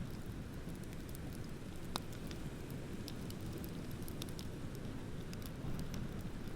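Beach bonfire crackling, with scattered sharp pops from the burning wood, the sharpest about two seconds in, over a steady low rush of ocean waves.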